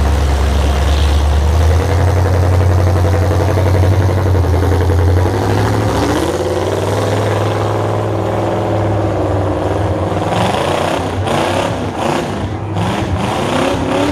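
Demolition derby stock truck engines running loudly, the revs rising and falling, with several sharp knocks in the last few seconds.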